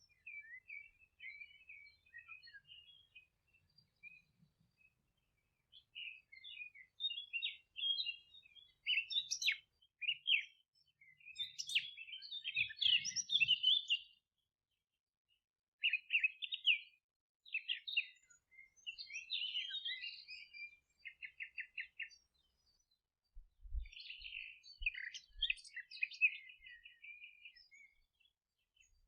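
Several songbirds singing and twittering in short, high chirping phrases, with brief pauses between bursts; a rapid run of evenly repeated notes comes twice, about two-thirds of the way through and near the end.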